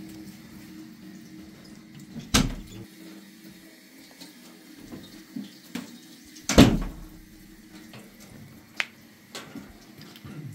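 Knocks from handling a cast-iron stove: two loud knocks about four seconds apart, then a few lighter clicks near the end, over a faint steady hum.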